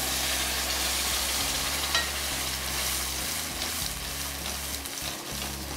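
Wet ground masala paste poured into hot oil in a kadai with shallots, garlic and curry leaves, sizzling as it hits the pan and as a spoon stirs it through. A single click about two seconds in, and the sizzle eases a little toward the end.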